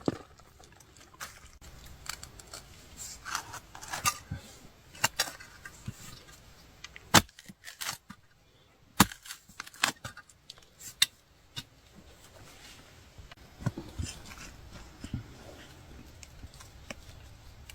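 Digging with a hand tool: irregular sharp knocks and scrapes as the blade strikes earth, roots and stones, the two loudest strikes about seven and nine seconds in.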